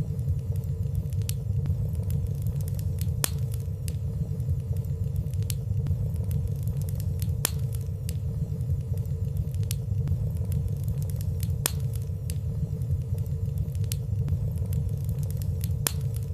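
Fireplace fire burning steadily, with a low rumble and small, scattered crackles.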